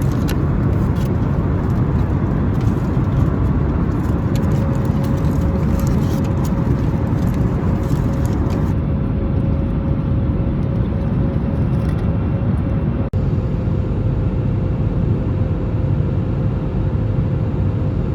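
Steady low rumble of a running road vehicle, with a faint steady hum joining about four seconds in.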